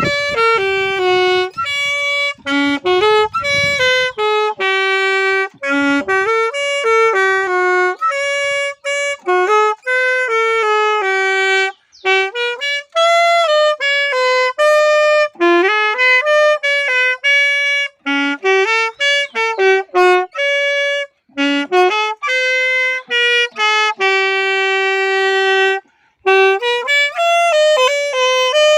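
Background music: a single wind instrument, sounding like a saxophone, playing a lively melody of short notes with some bent and a few held longer.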